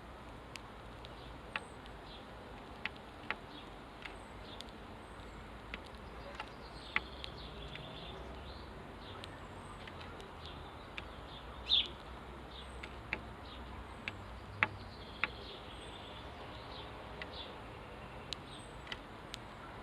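Garden sparrows giving occasional short chirps, the loudest about twelve seconds in, among scattered sharp ticks and faint high peeps.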